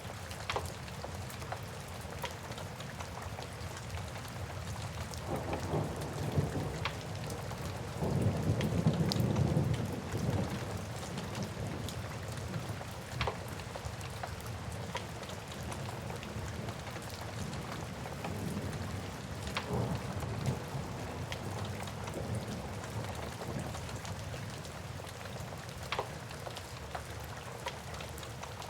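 Steady rain with a wood fire crackling in occasional sharp pops. A low roll of thunder builds about five seconds in, is loudest a few seconds later, then dies away.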